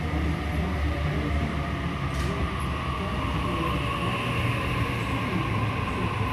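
Sydney Trains double-deck electric train moving along the platform: a steady rumble of wheels on rail, with a faint electric-motor whine that grows stronger in the second half.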